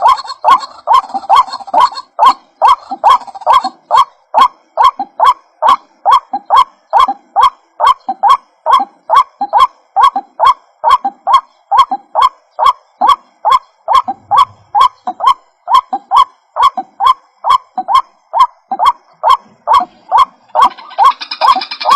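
White-breasted waterhen calls looped as a trapping lure: harsh, honking 'kwak' notes repeated steadily about two and a half times a second, each starting with a sharp click. About a second before the end, a higher, rasping sound joins in.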